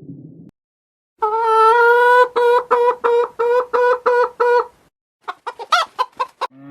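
Chicken calling: a long, loud, pitched call that breaks into a run of short repeated notes, followed by a burst of quicker, higher sweeping notes.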